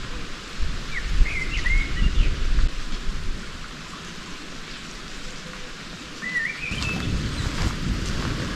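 A bird chirping in two short warbling phrases, about a second in and again near the end, over a steady hiss and an irregular low rumble.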